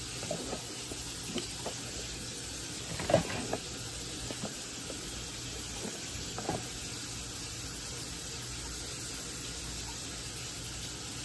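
Steady background hiss with a few light knocks and bumps from kitchen handling. The loudest knock comes about three seconds in.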